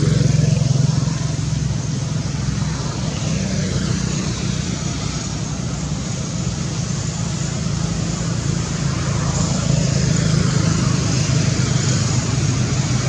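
A motor vehicle engine running steadily, a continuous low hum with a rough, fluctuating noise above it.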